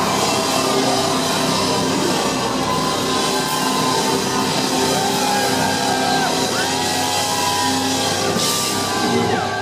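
Live hard rock band playing loudly: distorted electric guitars and drum kit, with long held notes that bend in pitch in the second half.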